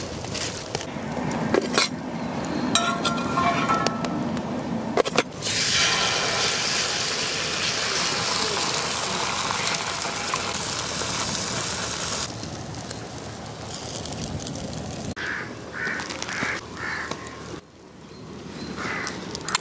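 Egg and bread frying on a hot flat iron tawa over a wood fire: a loud steady sizzle for about seven seconds in the middle that stops suddenly. Earlier there are a few sharp knocks of a metal spatula on the tawa.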